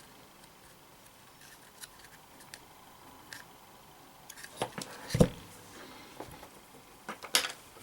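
Small clicks and knocks from handling tools and parts on a workbench: a few faint ticks, then a louder cluster of knocks about five seconds in and another near the end.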